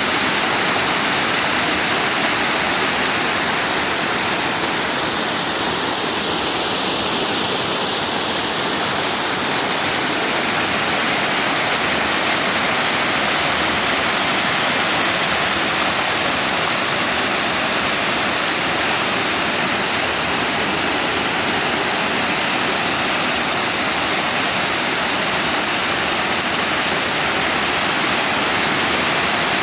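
Mountain stream rushing: a steady, loud rush of flowing water.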